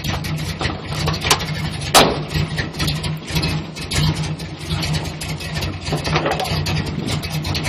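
Square-body GM pickup engine idling roughly: a steady low running note broken by uneven, irregular sharp ticks, with one louder crack about two seconds in.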